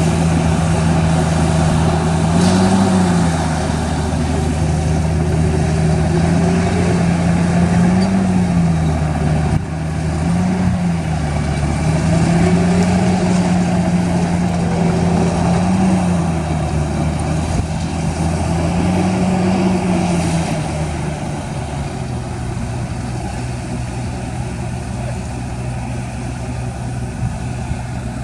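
Heavy diesel engine of an earthmoving machine running hard, its pitch lifting briefly about five times, then dropping to a lower, steady idle about 21 seconds in.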